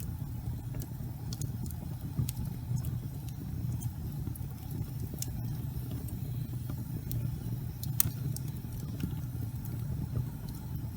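Fireplace fire burning: a steady low rumble of flames with scattered sharp crackles, one louder pop about eight seconds in.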